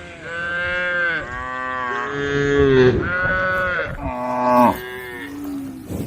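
Several cows mooing in turn, about five long calls in six seconds. Some calls overlap at different pitches, and each rises and then falls away.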